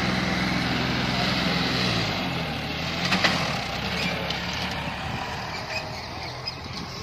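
John Deere 5305 tractor's three-cylinder diesel engine running, its note shifting about two seconds in. A sharp clank about three seconds in.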